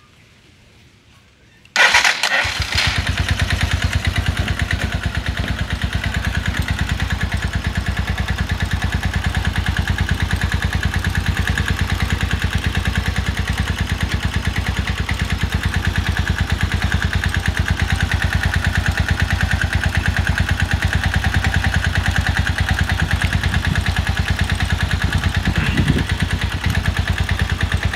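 Small air-cooled single-cylinder motorcycle engine starting suddenly about two seconds in and then idling steadily with rapid, even firing, cutting off at the very end. It is running on an improvised ignition fed only through the CDI and the high- and low-tension coils.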